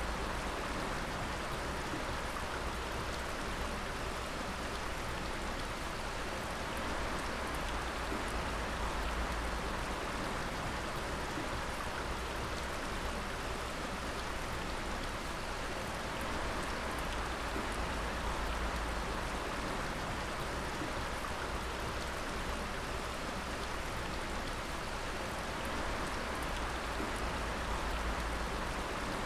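Water dripping steadily, many drops falling and splashing at once in a dense, unbroken patter.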